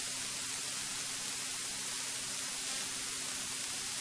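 Steady hiss from the cockpit intercom audio feed, with faint low steady hum lines underneath.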